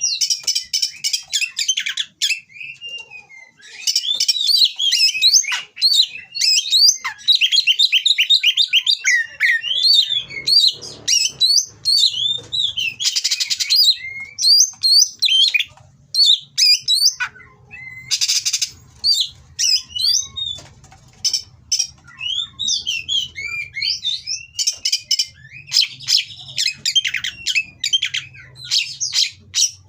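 Oriental magpie-robin (kacer) singing a long, varied song of quick whistled and trilled phrases, with harsh rasping notes mixed in.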